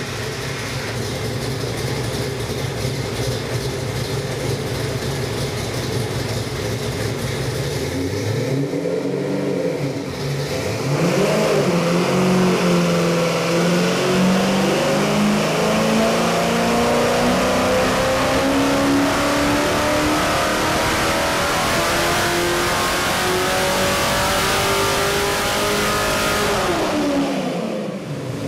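Roller-cam 351 Cleveland V8 crate engine running on an engine dyno. It runs at a steady speed, gives a quick rev about nine seconds in, then makes a full-throttle dyno pull with the pitch climbing steadily for about fifteen seconds before dropping back near the end.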